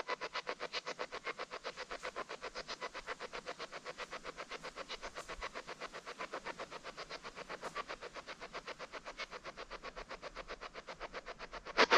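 Spirit box radio sweeping through stations: a rapid, even chop of radio static, about seven pulses a second. It turns abruptly louder near the end.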